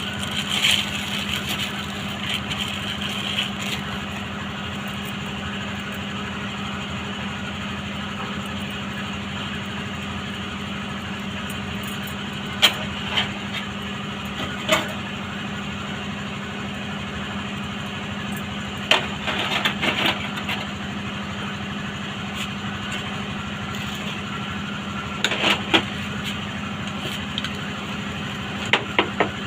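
Steady machine hum with a strong low tone, broken by a few sharp clicks and knocks, single and in short clusters.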